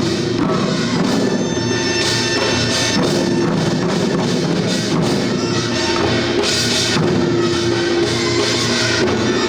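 Korean traditional drum-dance music: buk barrel drums and other percussion beaten in a dense, continuous rhythm, with a held melodic tone sounding over it on and off.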